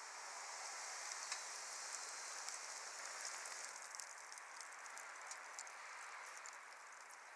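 Wood fire burning: a steady hiss with many small scattered crackles and pops.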